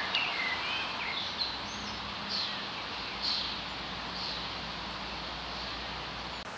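Wild birds giving several short chirping calls over a steady outdoor hiss.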